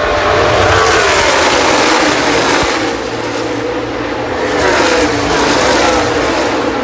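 A pack of NASCAR Cup stock cars running at full speed past the grandstand, their V8 engines dropping in pitch as they go by, with a second wave of cars passing about four and a half seconds in.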